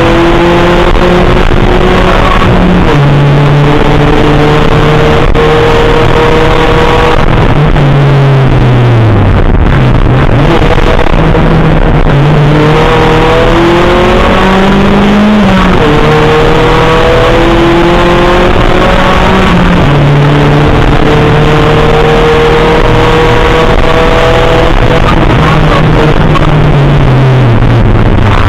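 VW Golf GTI race car's engine heard from inside the cabin, driven hard: its pitch climbs in each gear and drops at each upshift, over and over. A few times the pitch falls away for longer as the car slows and then builds up again.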